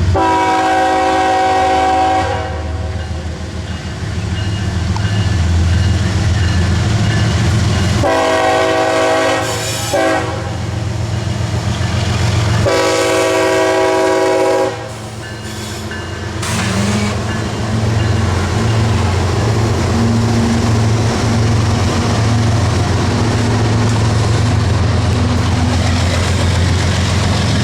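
CSX diesel locomotive's air horn sounding three blasts of about two seconds each, the second and third close together, over the steady low rumble of the locomotive's diesel engine.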